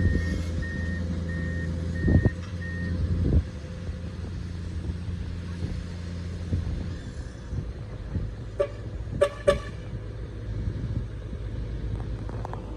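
Excavator's diesel engine running with its travel alarm beeping steadily; the beeping stops about three seconds in and the engine drops away a few seconds later. Sharp knocks come at times, with three in quick succession near the end.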